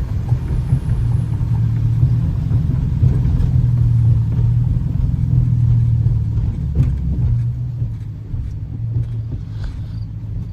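Dodge Challenger R/T's 5.7-litre HEMI V8 running under way, a steady deep exhaust drone that eases off after about seven seconds.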